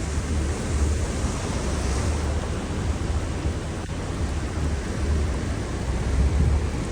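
Heavy rainstorm: a steady hiss of rain and wind, with gusts buffeting the microphone in uneven low rumbles.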